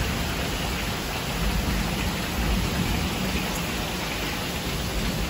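Heavy rain pouring down steadily in a thunderstorm: a constant hiss with a deep, uneven rumble underneath.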